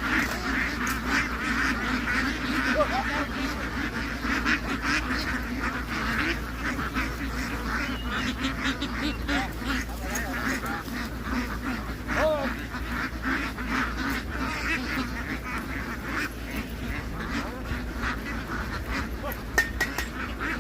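A large flock of domestic ducks quacking together in a dense, continuous din, with scattered short clicks and a steady low hum underneath.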